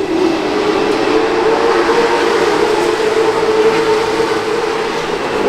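Steady drone of racing engines running, a continuous hum with one strong pitch that holds level throughout.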